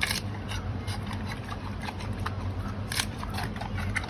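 Giant panda chewing bamboo: irregular sharp cracks and crunches, loudest right at the start and about three seconds in, over a steady low hum.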